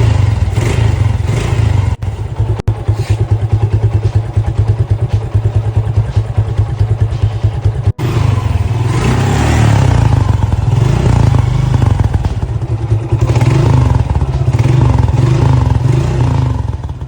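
Suzuki Gixxer motorcycle engine running through its exhaust with an even, pulsing beat, then revved up and down in several swells from about eight seconds in.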